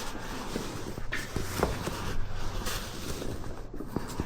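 Hands working a grease-packed rubber CV boot onto an ATV axle: scattered rustles, soft knocks and clicks of handling.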